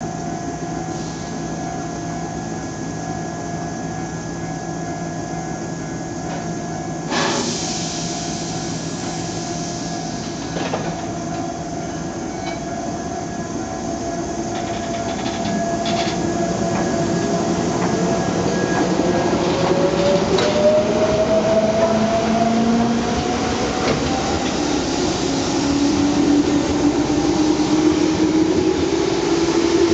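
Tobu 8000 series electric train starting away from a station. A steady hum at standstill is broken by a sharp click about seven seconds in. From about halfway the traction motors and gears whine, rising in pitch and getting louder as the train picks up speed.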